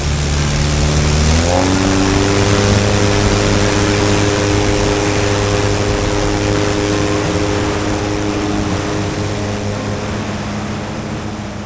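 Avid Flyer light aircraft's engine and propeller going to full throttle for takeoff: the engine note climbs in pitch over the first couple of seconds, then holds steady at full power under heavy rushing noise.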